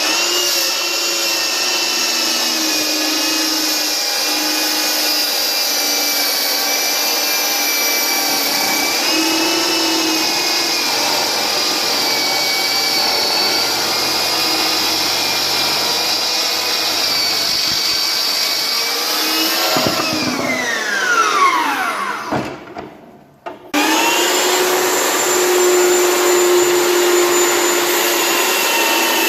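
Mafell MKS185 circular saw running through a cut, a loud steady motor whine that wavers slightly in pitch. About twenty seconds in it is switched off and winds down in a falling whine, then it starts running again abruptly a few seconds later.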